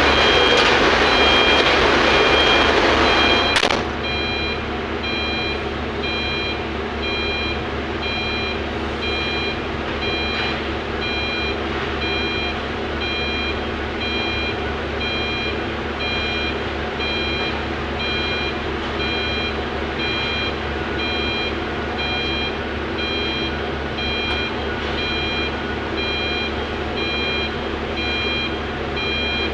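Heavy mining equipment's reversing alarm sounding evenly spaced beeps over a steadily running diesel engine. A louder rushing noise stops abruptly about four seconds in.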